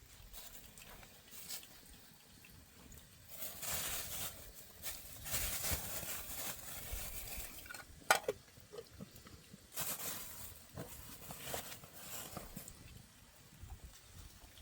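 Rain pattering, swelling twice into heavier spells, with a single sharp knock about eight seconds in.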